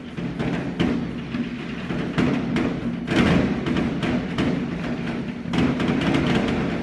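Many fireworks going off at once: a dense, continuous run of bangs, booms and crackles, thickest about three seconds in and again toward the end.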